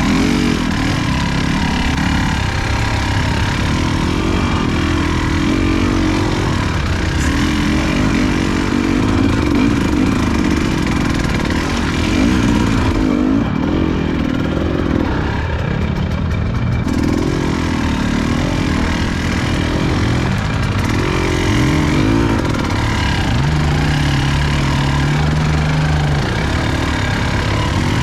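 Off-road motorcycle engine running at low revs, its pitch rising and falling with the throttle as the bike is ridden slowly over rough ground. A steadier stretch of held revs comes about three quarters of the way through.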